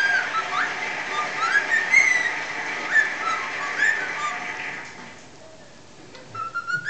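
Cockatiel whistling a string of short notes that slide up and down, over a steady background hiss that drops away about five seconds in; after a short lull, one more rising whistle near the end.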